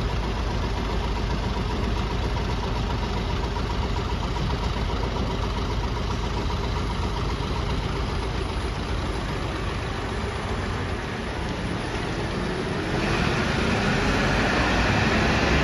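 City bus engine idling steadily. About 13 seconds in, it grows louder, with a rising pitch.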